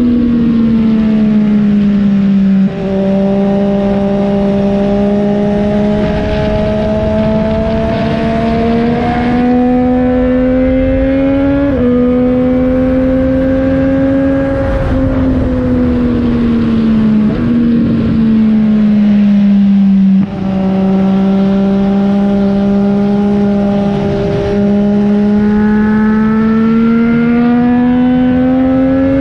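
Triumph Street Triple 765 RS's 765 cc inline three-cylinder engine running through a Yoshimura AT2 exhaust while being ridden. The note climbs slowly under load and dips sharply at several quick gear changes, and it falls away for a few seconds midway as the throttle eases off.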